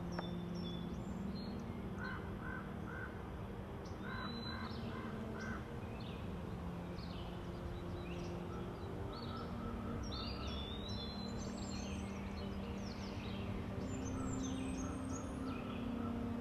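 Birds chirping and calling, many short high notes, over a steady low hum.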